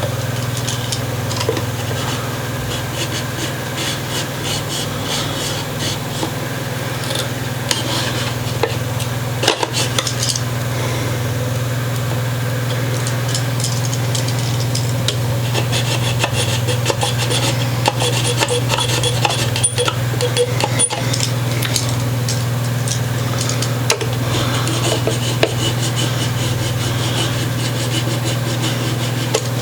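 An X-Acto hobby knife blade sawing back and forth through wooden toothpicks plugged into old screw holes, trimming them flush: a fast, continuous rasping of short strokes. A steady low hum runs underneath.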